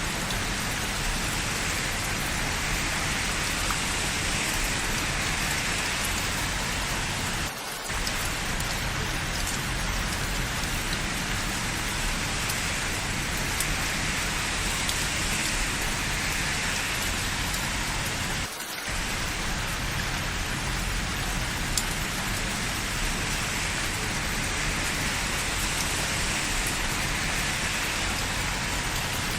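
Steady rain falling, an even hiss that dips briefly twice, about eleven seconds apart.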